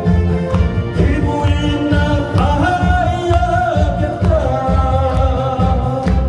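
Korean song: a held, gliding vocal melody over a backing track with a steady, pulsing bass beat.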